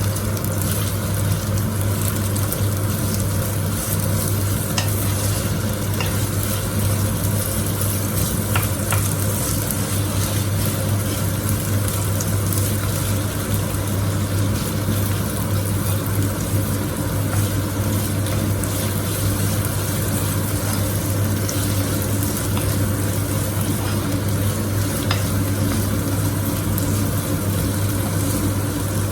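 Food sizzling in a frying pan, a steady hiss over a constant low hum, with a few light clicks.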